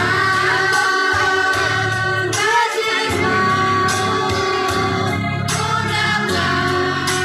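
Children's choir singing together with instrumental accompaniment, holding long sustained notes.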